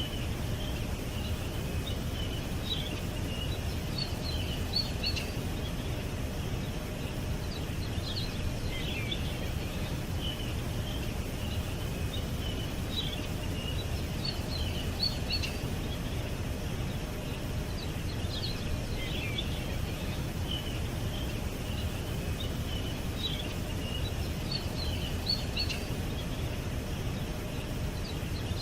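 Songbirds chirping in short clusters of quick high notes that come back every few seconds, over a steady low background rumble.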